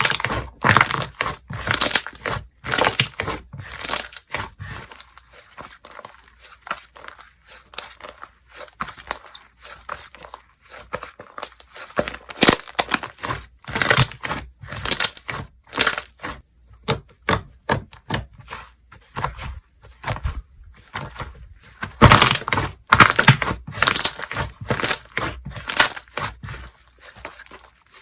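Slime being squished, pressed and stretched by hand, giving an irregular run of sticky clicks and pops that grows denser and louder a little over three quarters of the way through.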